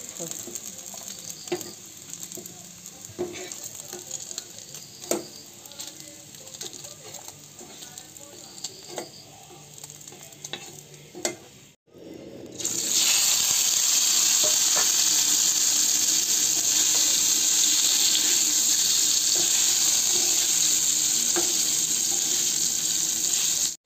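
Food frying in hot oil in a pan, with scattered knocks and scrapes of a stirring spoon against the pan. The sound cuts out briefly about halfway through, then comes back as a much louder, steady sizzle.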